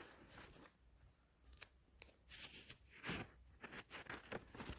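Near silence with faint, irregular rustling and crackling.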